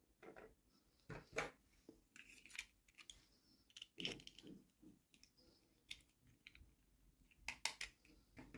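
Scattered small clicks and crinkles of plastic toy packaging and miniature toy pieces being handled, with a few sharper clicks near the end.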